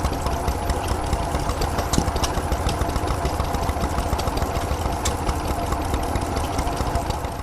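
Vintage stationary engine running steadily at a fast, even beat.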